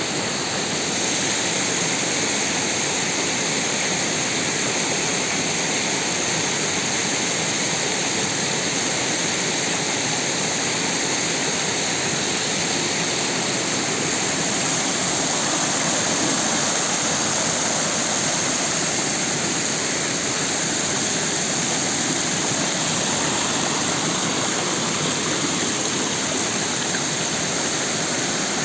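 Rain-swollen creek rushing and splashing in a steady, loud flow.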